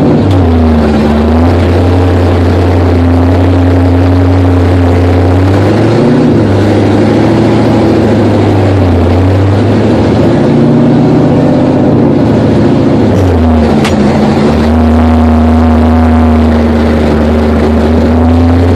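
1966 Plymouth Valiant V100's engine running during break-in, its speed repeatedly rising and falling with steady stretches between.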